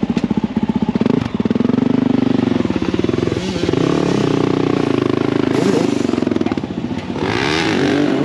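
Motorcycle engines running. A near one pulses at a low, even beat for about the first second, then steadier engine notes rise and fall in pitch.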